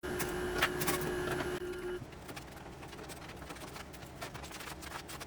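Plastic building bricks clicking and rattling as a brick-built model is pulled apart: many small clicks in quick succession. A steady hum runs under them for the first two seconds.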